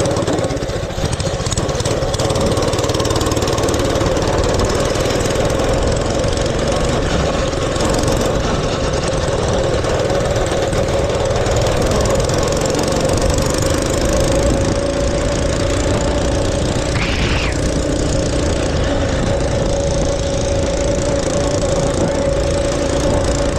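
Mini bike's small engine running at a steady speed while riding, holding one even engine note over a heavy low rumble.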